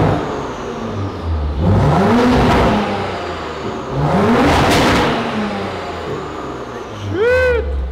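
A car engine revved in three blips about two and a half seconds apart, each rising and falling in pitch; the last one, near the end, is shorter and higher.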